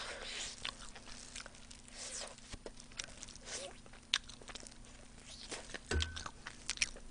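Close-miked biting and chewing of sauced fried chicken, a string of small sharp mouth clicks and smacks. About six seconds in, a short low thump as a chicken bone is set down in a bowl.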